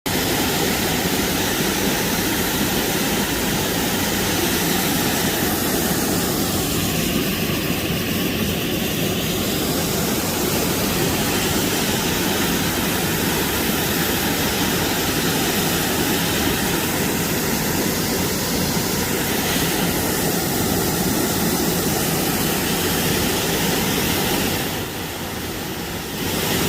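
Waterfall: a steady, loud rush of falling water, dropping a little in level for a moment near the end.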